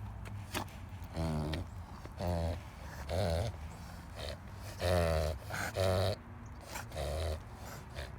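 A dog reverse sneezing: six short, pitched, rasping pulls of air through the nose, each falling in pitch, about a second apart. This is the spasm-like inward snorting of a reverse-sneeze episode.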